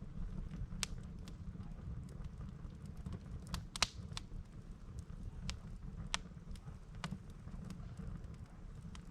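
Firewood burning in a campfire, crackling with scattered sharp pops, the loudest about four seconds in, over a steady low rumble.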